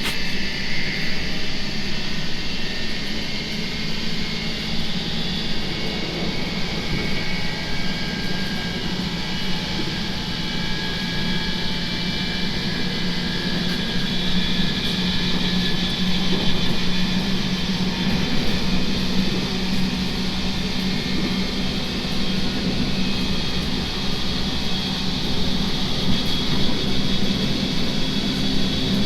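JR Kyushu 811 series electric multiple unit running at speed, heard from inside the car: a steady drone of traction motors with their internal cooling fans and wheels on rail. A low hum and thin high whines drift slowly in pitch.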